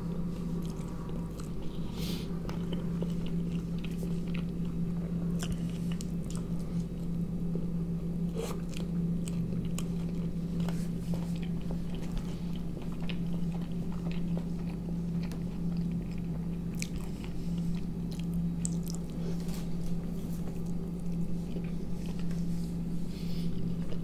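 Close-up chewing and biting of a soft tortilla-wrapped snack with sausage and tomato: scattered wet mouth clicks and smacks. A steady low hum runs under it.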